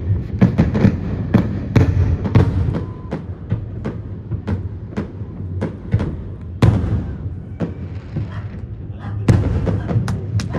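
Many fireworks going off at once: a dense, irregular run of bangs and crackles, with heavier bangs about six and a half and nine seconds in.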